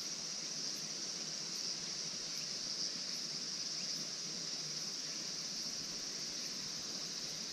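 Insect chorus: a steady, high, even chirring, with a faint high tick repeating a little more than once a second above it.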